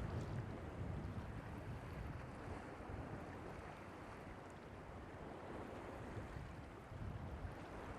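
Seaside wind and surf: a steady rushing noise with a low rumble, wind on the microphone mixed with waves breaking on the beach.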